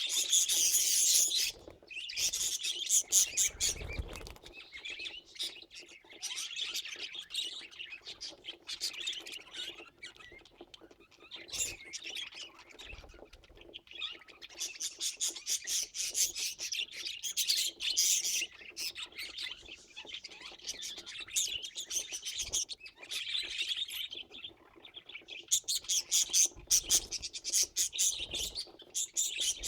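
Budgerigars chirping and chattering in fast, high runs of chirps, broken by short pauses.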